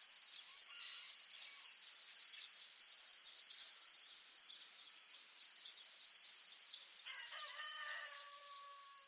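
Field crickets chirping, a short high chirp about twice a second, over a faint rural background. About seven seconds in, a drawn-out, lower-pitched animal call joins for about two seconds.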